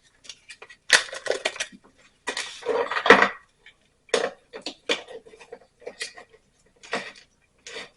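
A utensil clinking and scraping against a cast iron pot in irregular strokes, loudest about a second in and again between two and three seconds in: the spice mix being worked in the pot.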